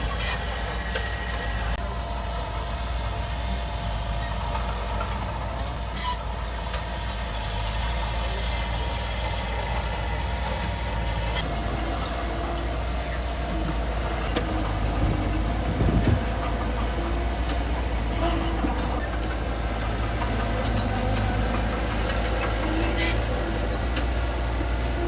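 Heavy diesel earthmoving machinery running steadily with a deep engine drone. Short metallic squeaks and clanks come and go, more often in the second half.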